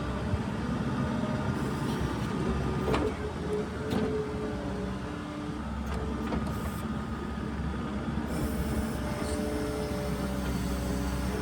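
New Holland skid steer's diesel engine running steadily while clearing snow, with a couple of sharp clanks about three and four seconds in.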